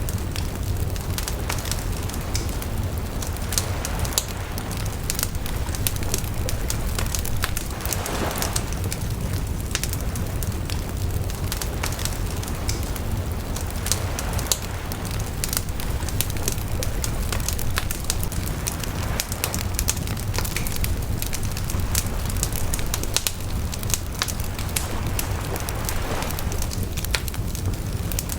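Wood bonfire crackling, with frequent sharp pops and snaps scattered irregularly over a steady low rumble of the flames.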